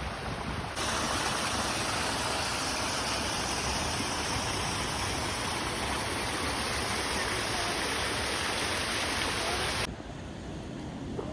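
Rushing water of a waterfall: a steady, even hiss that starts abruptly just under a second in and cuts off suddenly near the end, with gusty wind on the microphone either side.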